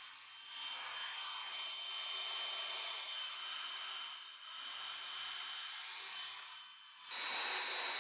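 Hot-air gun blowing, a steady rushing hiss with a thin fan whine, used to soften and peel off the motorcycle's stickers. About seven seconds in the hiss gets louder and the whine steps higher.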